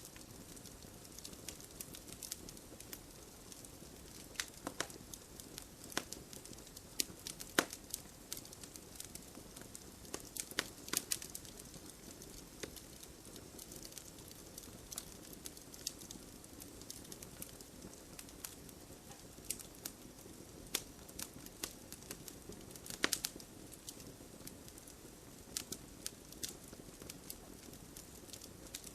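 Campfire burning with a steady low hiss and irregular sharp crackles and pops, some coming in quick clusters.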